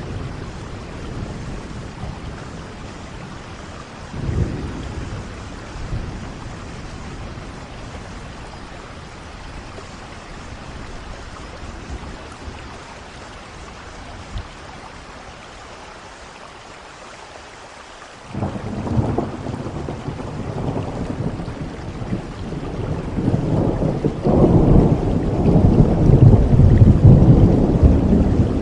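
Rain falling steadily with rolls of thunder: a brief low rumble about four seconds in, a quieter stretch, then a thunderclap breaking suddenly about two-thirds of the way through and rolling into a long, loud rumble that keeps building to the end.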